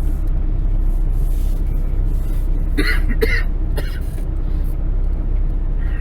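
Kenworth truck's diesel engine idling steadily. About three seconds in, a person clears their throat with two short coughs.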